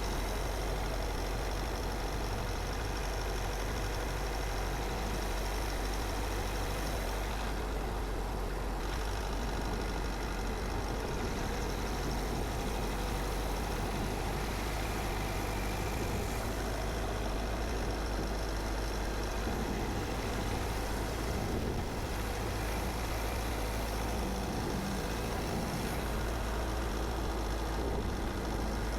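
A car driving at steady speed: continuous road and tyre noise over a low engine hum.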